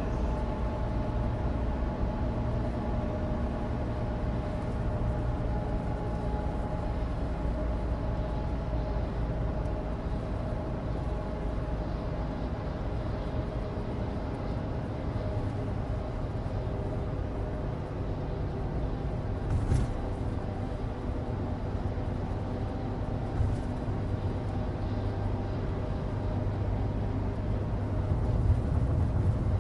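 Inside the cabin of a 2016 Suzuki Alto Turbo RS on the move: the steady hum of its small turbocharged three-cylinder engine and road noise from studless winter tyres on dry asphalt. There is a brief click about 20 seconds in and another a few seconds later.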